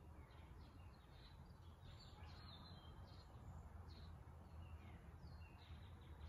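Near silence: faint, repeated short bird chirps, each dropping slightly in pitch, over a low steady hum.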